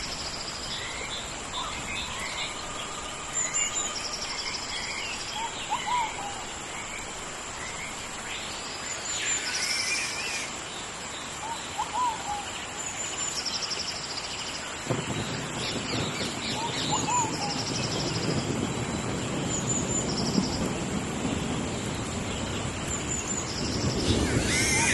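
Tropical rainforest ambience in the rain: a steady hiss with a constant high insect-like drone, and birds calling over and over every few seconds. About halfway through a deeper rumbling noise comes in and swells toward the end.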